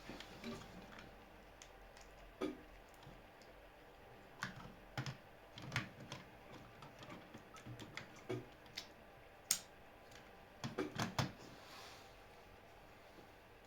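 Irregular light clicks and taps of small parts being handled during a repair job, with one sharp click a little past the middle and a quick run of clicks near the end.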